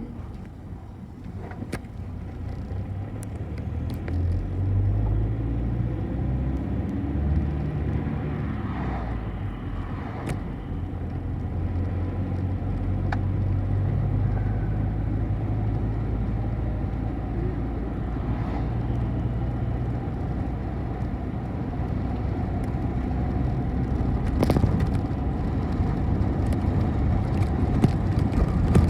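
City bus engine and road noise heard from inside a moving bus. The engine note climbs over the first few seconds as the bus gets under way, then runs on steadily, with a few short rattles and knocks, the loudest about three-quarters of the way through.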